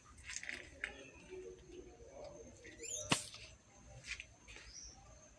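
Faint chirps of small birds, a few short high calls sliding up and down, with a single sharp click about three seconds in.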